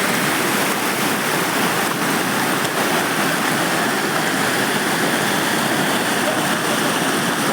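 Floodwater rushing steadily, a continuous, even roar of a rain-swollen torrent.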